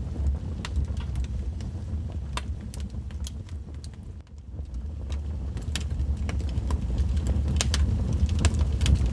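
Wood fire crackling, with irregular sharp pops and snaps over a steady low rumble, which dips briefly about four seconds in.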